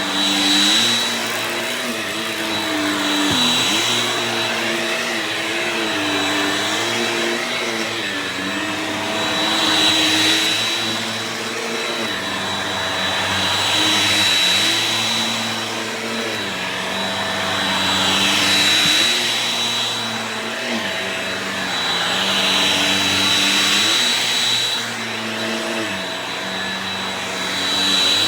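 Shark Rocket vacuum cleaner running continuously with a steady high whine. Its sound swells and eases about every four to five seconds as it is pushed slowly back and forth.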